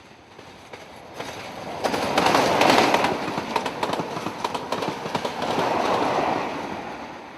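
A Class 47 diesel-hauled train passing at speed, its wheels clattering over the rail joints with many sharp clicks. It swells quickly to its loudest about two to three seconds in, swells again near six seconds, then fades away.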